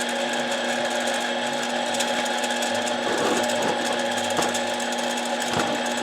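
Benchtop mini lathe running steadily, its motor and gear train giving a constant hum and whine, with a few light knocks.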